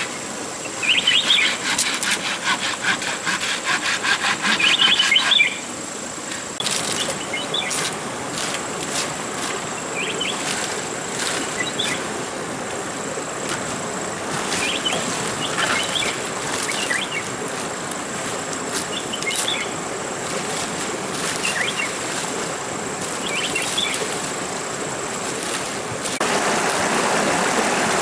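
Rapid, rhythmic scraping on wood, like a saw or blade working a piece of timber, stops about five seconds in. Forest ambience follows, with scattered bird chirps and a steady high insect whine, and near the end a rushing stream comes in.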